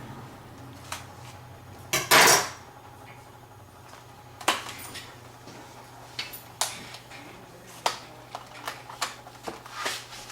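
Plastic retail packaging of RAM sticks being handled and opened: a short loud crackle about two seconds in, then scattered sharp clicks and knocks. A low steady hum runs underneath.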